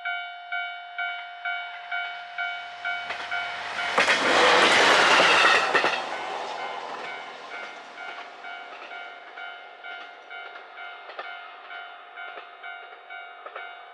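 Japanese railway crossing bell ringing steadily about twice a second while a JR Hokkaido H100 'DECMO' diesel-electric railcar passes through at speed. The train's pass is a loud rush of about two seconds, starting about four seconds in. It is followed by fading clatter from the wheels as the bell keeps ringing.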